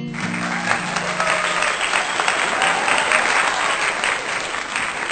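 Audience applause, a dense steady clapping that sets in right as the song's final guitar chord dies away in the first second or two.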